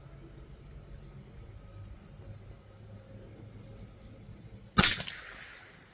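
Steady high chirring of crickets, then a single .22 LR rifle shot about three-quarters of the way through: a sharp crack with a short echo. The insect chirring stops after the shot.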